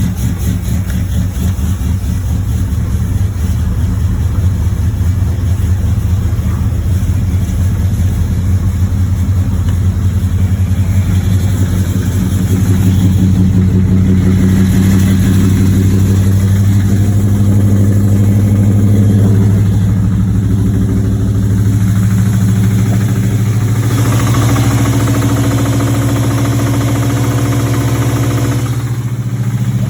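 1986 Chevrolet Monte Carlo SS's V8 running while the car is driven: a steady engine note that climbs slowly, holds, and eases briefly near the end. The engine has a bottom-end rod knock, the sign of a worn connecting-rod bearing.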